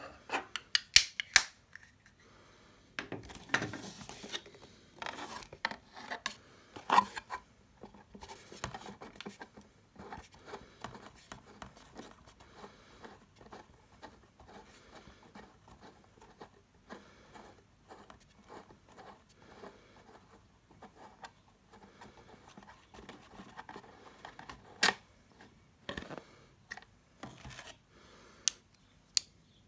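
Packaging and small plastic parts being handled and opened by hand: scattered sharp clicks, scraping and rubbing. There is a quick run of clicks at the start and a few louder snaps near the end.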